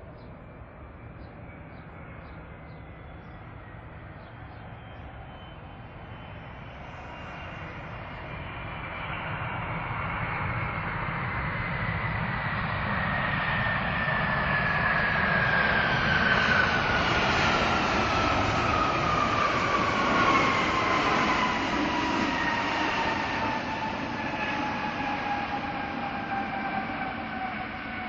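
Jet airliner's engines passing close by: a rushing noise builds to a peak and then eases, while the engines' whine falls steadily in pitch as the aircraft goes past.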